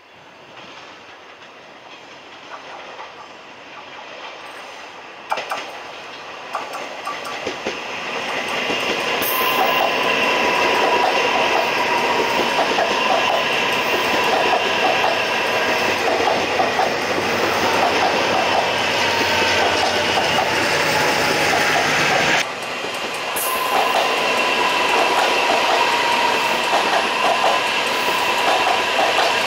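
Train passing through a station: it grows from faint to loud over the first ten seconds or so, then carries on as a steady rumble with even, rhythmic wheel clatter over the rail joints and a steady high whine.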